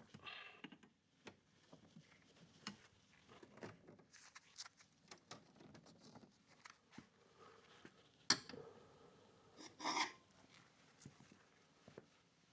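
Faint handling sounds: scattered small clicks and rubbing, with a sharper click about eight seconds in and a short scraping noise around ten seconds.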